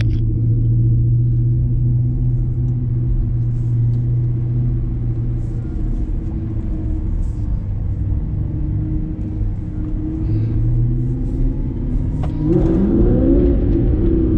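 Audi R8's V8 engine running at low, steady revs as the car moves off, heard from inside the cabin. About twelve seconds in, it revs up with a rising note.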